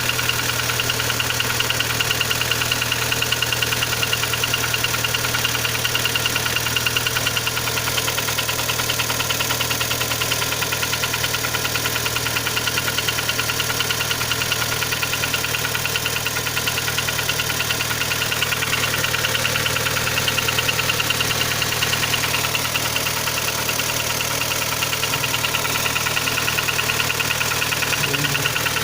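Kia Sportage 3 engine running steadily at idle with a rapid, even knock. The owner reports that the knock is louder on a cold engine and quieter once warm, and is asking what causes it.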